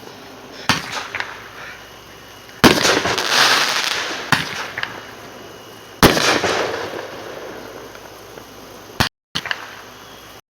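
Aerial fireworks bursting: a string of sharp bangs, the two loudest about two and a half and six seconds in, each followed by a crackling, hissing shower that fades over a few seconds. The sound cuts out briefly twice near the end.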